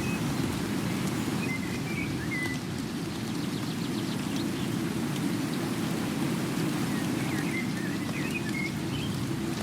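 Steady rain, an even rushing hiss heaviest in its low end. Faint high chirps come through twice, about a second and a half in and again near the end.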